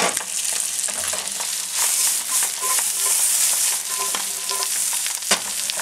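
Branzino fillets and sliced onions sizzling in butter and oil in hot frying pans, a steady hiss. A single sharp click comes about five seconds in.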